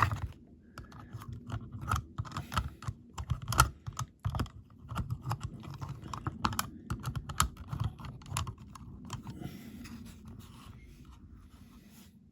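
A run of irregular small clicks and taps from objects being handled, over a low rumble, thinning out near the end.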